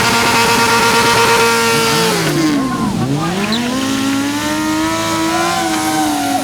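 Motorcycle engine held at high revs during a burnout: the steady high pitch dips sharply about two seconds in, bottoms out near three seconds, then climbs back up and holds.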